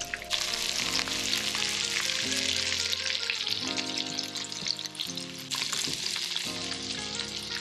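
Fish patties sizzling and crackling as they pan-fry in hot olive oil and melted garlic butter in a skillet, a dense steady crackle. Soft background music with sustained chords plays underneath.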